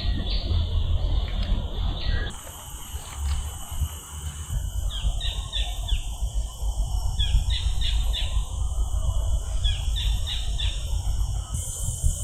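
Collared kingfisher calling: three runs of four or five quick falling notes, each run a couple of seconds after the last, over a steady high hiss.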